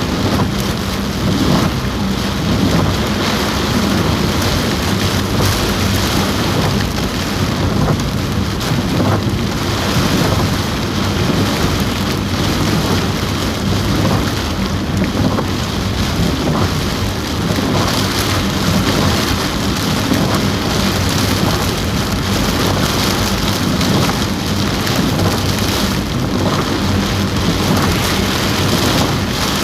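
Heavy rain drumming steadily on a car roof, heard from inside the car.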